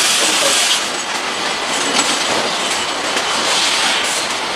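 Steady factory floor noise: continuous mechanical clatter and hiss, with scattered light ticks.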